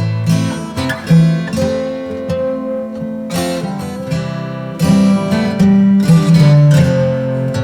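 Background music: strummed acoustic guitar with chord changes.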